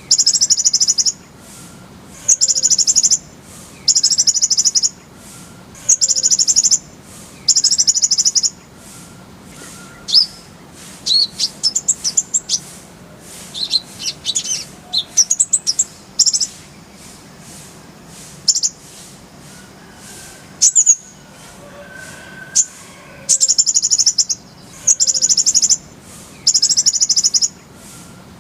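Kolibri ninja sunbird singing. Its high, rapid, trilled bursts last about a second each and repeat every second or two. A stretch of varied quick chirps and whistled glides comes between them, and the repeated bursts return near the end.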